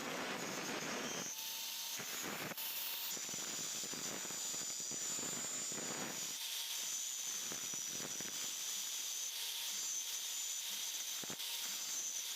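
A workshop machine running steadily, with a continuous hissing noise and a steady high whine.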